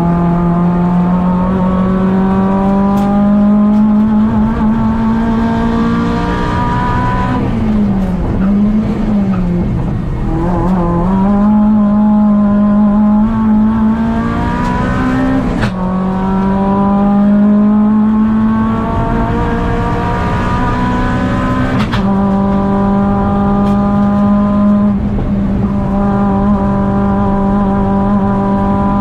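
Škoda Fabia 1.4 16v four-cylinder engine heard from inside the cabin, pulling hard up a hillclimb: the revs climb steadily, waver and dip as the car slows for a bend about a third of the way in, then climb again, with sudden drops in revs at gear changes about halfway and about three quarters through.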